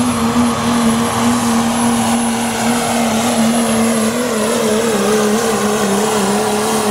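Dodge diesel pickup in the 3.0 diesel pulling class running hard under load as it drags a weight-transfer pulling sled, a steady loud drone with a thin high whine above it. The pitch wavers about four to five seconds in, typical of the driver feathering the throttle, and sags slightly toward the end of the run.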